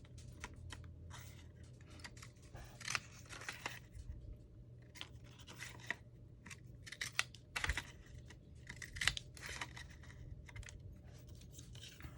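Paper being handled and cut by hand: scattered light, irregular clicks and rustles.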